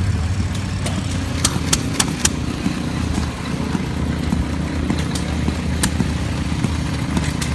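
An engine running steadily with a low rumble, crossed by a few sharp clicks or knocks, four in quick succession about a second and a half in and two more later.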